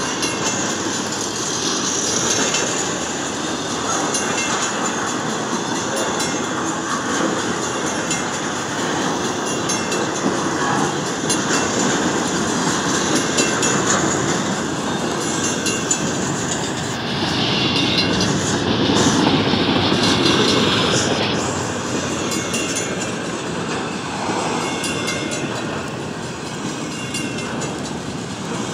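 Intermodal freight cars, trailer flatcars and double-stack container cars, rolling past at close range: a steady noise of steel wheels on rail. A louder, brighter stretch comes about two-thirds of the way through.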